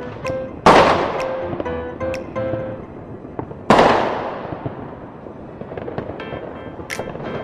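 Fireworks bursting: two loud booms about three seconds apart, each fading out slowly, followed by a few smaller sharp cracks near the end. Music plays alongside.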